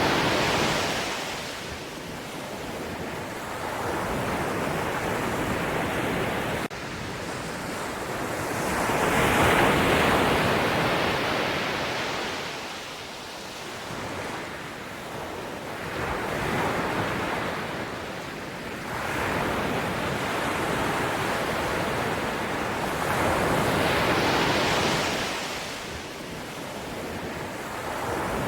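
Sea waves washing in and drawing back, a steady rush of surf that swells into a louder wave every several seconds.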